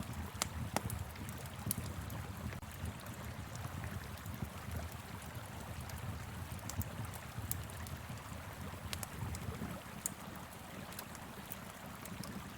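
Wood fire crackling with scattered sharp pops, over the steady rush of a flowing river and a low wind rumble.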